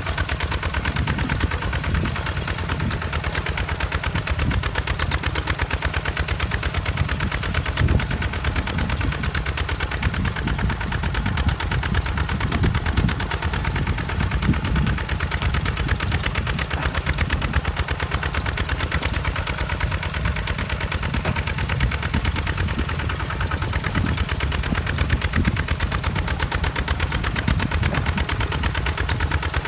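Walk-behind two-wheel tractor's single-cylinder diesel engine running steadily, with a rapid, even chugging exhaust beat.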